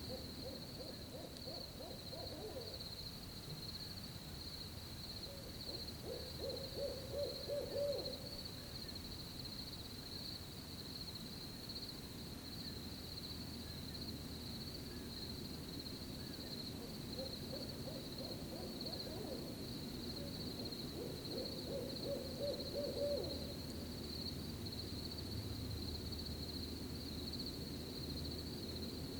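Owl hooting in two runs of quick hoots, about six seconds in and again about twenty-two seconds in, each after a fainter call, over a steady high cricket trill.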